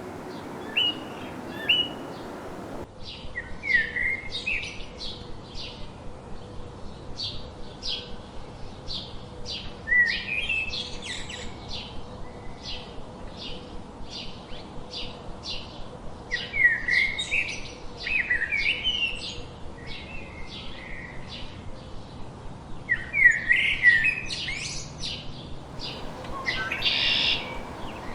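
Songbirds chirping and singing: a fast, steady run of short high chirps, with louder whistled song phrases breaking in every few seconds.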